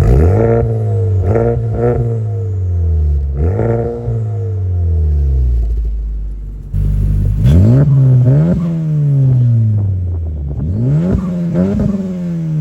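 Honda Civic Type R's turbocharged 2.0-litre four-cylinder revved through its exhaust in a series of quick blips, each climbing sharply in pitch and falling back slowly toward idle.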